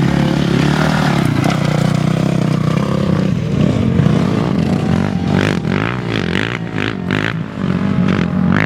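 An off-road racing vehicle's engine running steadily, with short scraping and clattering sounds over it in the second half.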